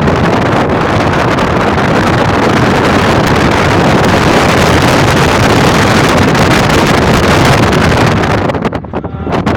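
Strong wind buffeting the microphone: a loud, steady rushing noise that drops briefly near the end.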